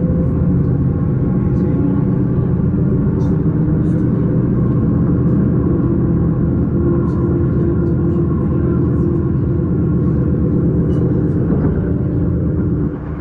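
S-Bahn electric train running at speed: a steady loud rumble with a constant hum, and a few faint ticks and squeaks.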